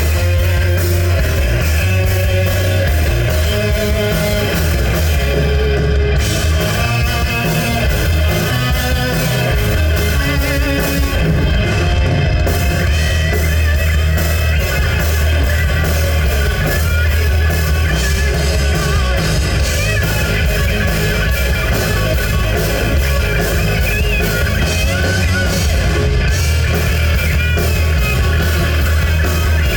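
Live rock band playing a heavy-metal number: electric guitars over bass and drum kit, continuing without a break.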